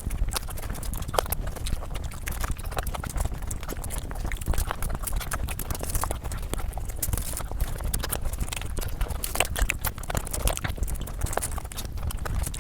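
Close-miked eating: chewing and crunching with many quick, irregular crisp clicks and smacks.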